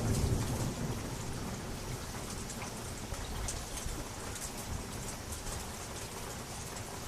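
Steady rain with many single drops striking a surface. The last low rumble of a thunderclap dies away in the first second.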